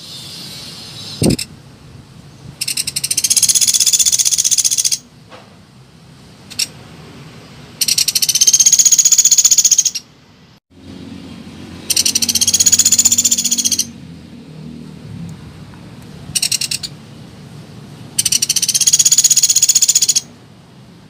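Woodpecker ('pelatuk beras') calls played as a lure: loud, high, fast rattling trills about two seconds long, repeated four times, with short single notes in the gaps.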